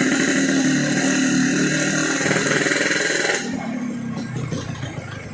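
Yamaha RX-King two-stroke single running under way through a gutted (bobokan) exhaust, a fast-pulsing buzzy note. A steady hiss over it stops about three and a half seconds in, after which the engine goes on more quietly.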